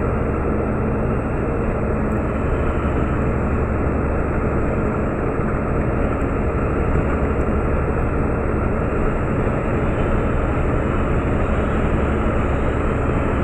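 Steady drone of a Meteor hydrofoil's twin diesel engines and rushing water while it runs at speed, heard from aboard, with a strong low hum.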